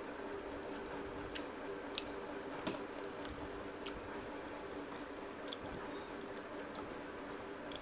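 Eating sounds from rice and omelette curry eaten by hand: wet chewing with scattered sharp mouth clicks, a few seconds apart. A steady low hum runs underneath.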